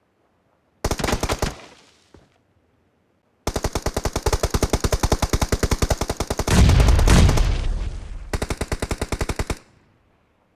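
Video-game automatic gunfire: a short volley about a second in, then a long stream of rapid shots at roughly ten a second, with a louder, deeper stretch midway through that stops near the end.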